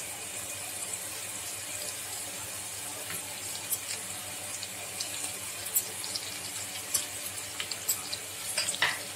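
Vegetables frying in oil in a steel kadhai: a steady sizzle as grated cauliflower and carrot are added to the frying onion and ginger-garlic paste, with scattered small crackles and taps.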